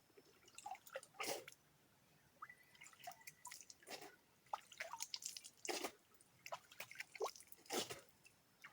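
Faint, irregular drips and small taps, a few a second, with quiet gaps between them.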